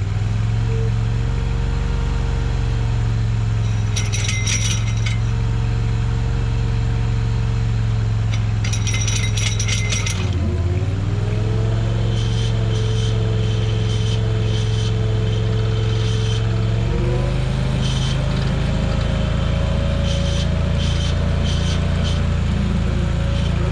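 Mini skid steer engine running steadily while driving a hydraulic flail mower at its first spin-up; the engine note dips briefly about ten seconds in and shifts pitch about seventeen seconds in. Short bursts of metallic rattling and clinking come twice early on, with scattered ticks later.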